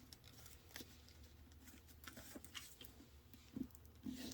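Faint rustling and light taps of a sheet of paper being folded and creased by hand, with a couple of slightly louder taps near the end.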